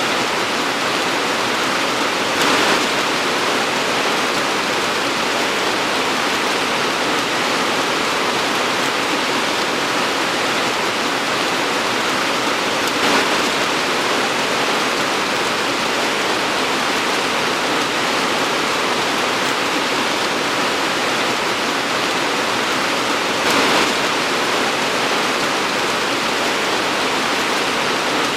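Torrential tropical rain pouring steadily, a dense even hiss, that gets briefly louder three times.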